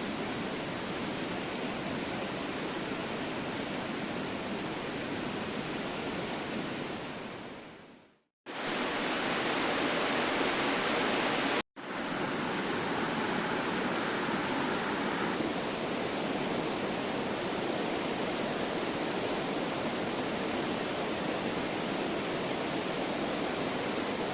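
Steady rushing of a mountain stream. It fades out about eight seconds in, then comes back in a few abrupt cuts and runs on evenly.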